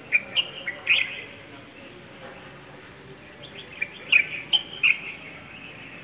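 Small birds chirping in a tree: quick, sharp, high chirps in two bunches, several within the first second and another run from about three and a half to five seconds in.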